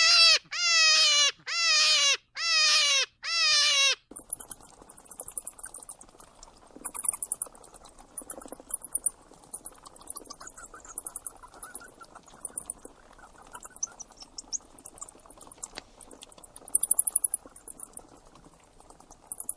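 An animal gives about five short calls in a row, each dropping in pitch. About four seconds in, these give way to insects chirping in fast, high-pitched trills that come and go in bursts.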